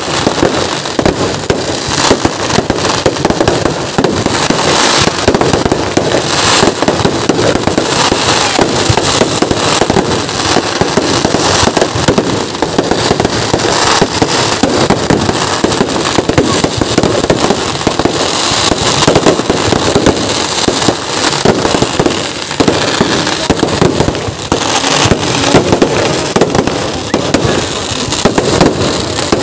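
Kerala festival fireworks display: a dense, unbroken barrage of firecracker explosions and crackling, the bangs overlapping with no pause, a few louder blasts standing out above the rest.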